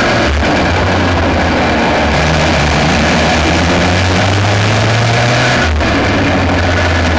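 Aixro rotary (Wankel) kart engine running at racing speed, heard close up from the kart with heavy wind and road noise. Its note climbs slowly for a few seconds, and the sound breaks off briefly twice, just after the start and again near the end, as if the driver lifts off.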